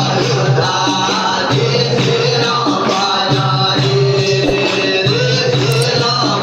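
Christian devotional song: a voice singing over instrumental backing with a steady bass line.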